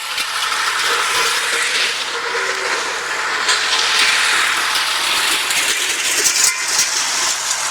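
Tractor running with a steady, loud hissing noise over the engine and a few light clicks.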